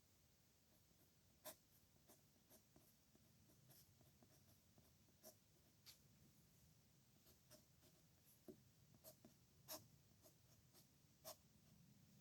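A pen nib scratching and tapping faintly on paper as characters are written slowly by hand, with a few sharper ticks as strokes start or the pen touches down.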